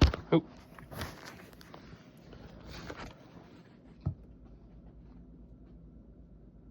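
Jack Russell terrier moving about in play: a sharp knock at the start, a short pitched yip just after, then scuffling and scrabbling, and a single thump about four seconds in.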